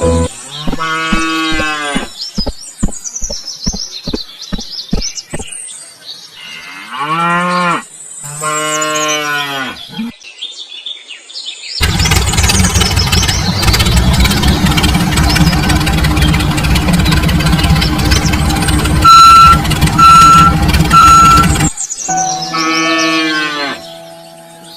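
Cattle mooing in several long calls, with a run of evenly spaced sharp clicks early on. In the middle comes a loud, dense rumbling noise that stops suddenly, with three short beeps about a second apart just before it ends.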